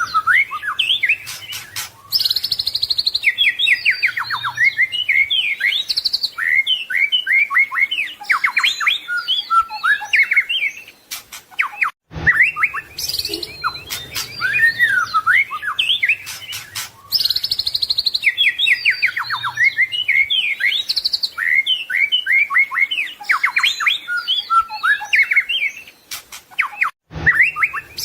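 White-rumped shama (murai batu) singing a fast, varied song of whistles, glides, trills and rapid chirps. There are brief breaks, and the same run of phrases comes round again about every fifteen seconds.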